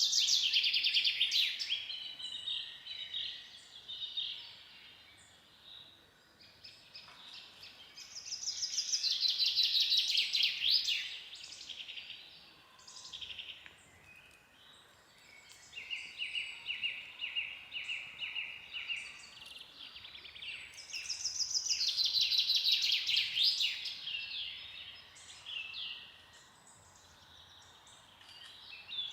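Songbirds singing: a loud, rapid trilling phrase comes back about every 10 to 12 seconds, with shorter calls and a run of evenly repeated notes in between.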